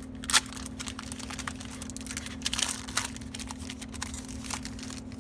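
Foil booster pack and trading cards being handled: scattered small crinkles and clicks, with a sharp snap about half a second in and a busier patch of crinkling around the middle. A steady low hum runs underneath.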